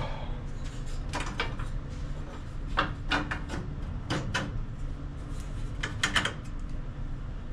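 Scattered metal clicks and clinks as bolts are worked through the holes of a riding mower's sheet-metal muffler guard, over a steady low hum.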